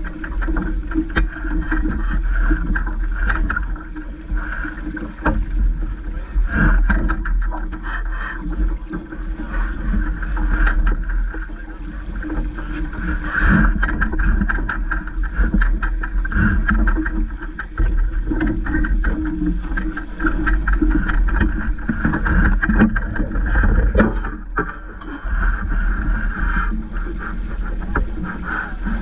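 Water rushing and splashing against the hull of a small Vaucluse Junior sailing dinghy under way, with many irregular slaps. Wind buffets the microphone with a low rumble.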